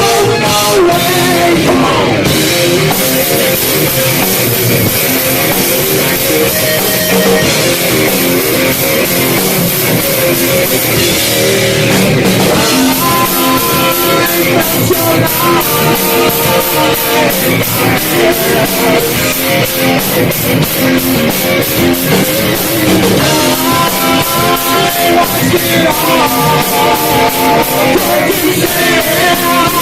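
Live heavy metal band playing loud: distorted electric guitars and a drum kit, with fast, even cymbal strokes through the later part.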